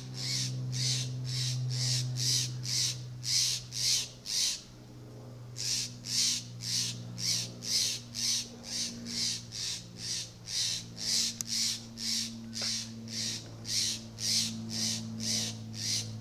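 A bird giving short, sharp alarm calls over and over, about two a second with one brief break a third of the way in: a parent bird scolding and mobbing a cat.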